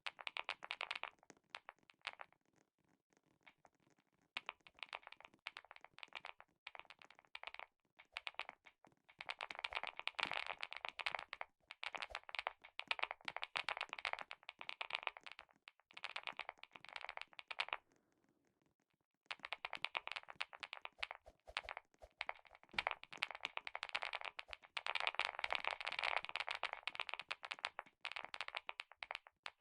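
Clicky mechanical keyboard being typed on: fast runs of sharp key clicks, with pauses about 2 to 4 seconds in and again around 18 seconds.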